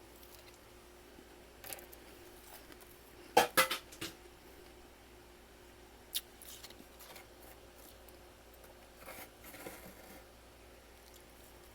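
Freezer frost bitten and crunched between the teeth: a quick cluster of loud crunches about three and a half seconds in, a single sharp crunch near six seconds, and softer crunching near the end, with quiet pauses between.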